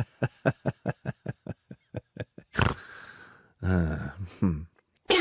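Kitten lapping milk from a bowl: quick wet laps, about five a second, that stop after about two and a half seconds. Near the end there is a low, drawn-out vocal sound about a second long.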